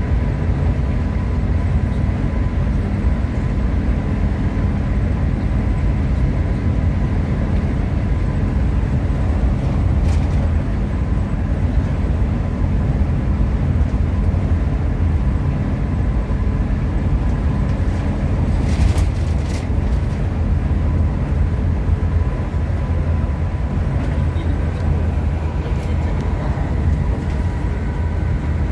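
A Hino RM 280-engined coach on the move: steady low engine and road rumble with a faint steady whine, and a few short clicks about 10 and 19 seconds in.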